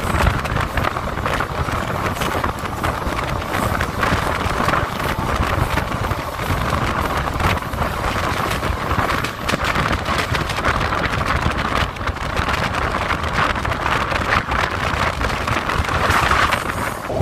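Passenger train running at speed: a steady rumble of the carriage with a clatter of wheels over the track, and wind buffeting the microphone.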